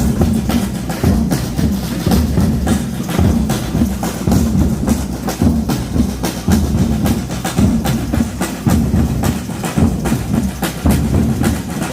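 Drums being played with a fast, busy beat of many sharp strokes a second, over a dense low rumble.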